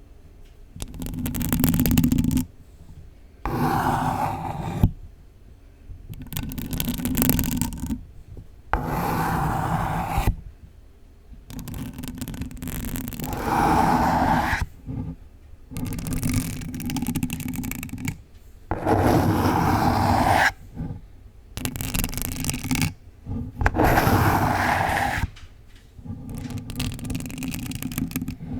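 Long false nails scratching a pink box close to the microphone, in repeated strokes of about one to two seconds separated by short pauses.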